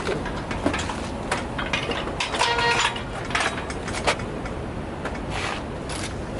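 Scattered metallic clicks and knocks of hand work on parts, with a brief squeak about two and a half seconds in, over a low steady rumble.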